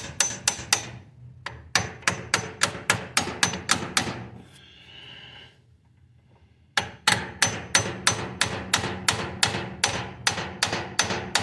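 Quick, even hammer blows on steel, about three to four a second, tapping the U-joint yoke along the front drive shaft of a Kubota BX2200 to bring the roll pin hole into line. The hammering stops for about two seconds midway, then resumes.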